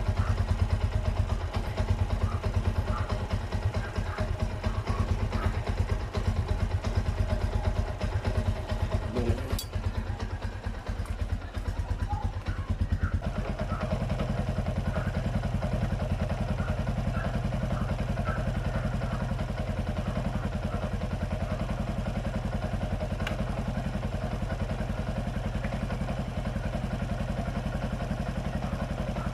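Yamaha Sniper 135's single-cylinder four-stroke engine idling, running again after its hard-starting fault, traced to a bad spark plug. The idle is a little uneven at first and settles into a steadier beat about a third of the way in.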